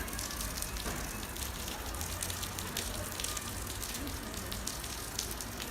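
Water rushing and splashing in a steady hiss with many small crackles.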